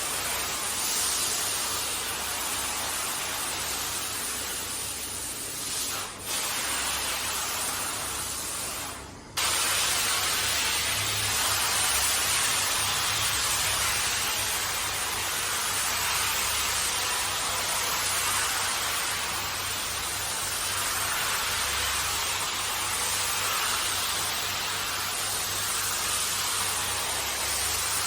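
High-pressure water spray from a hand-held car wash sprayer hissing steadily onto a carpet, briefly dropping out twice in the first third.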